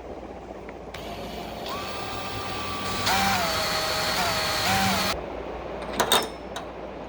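A small motor whining, its pitch steady at first, then dropping and wavering before it cuts off. A couple of sharp clicks follow near the end.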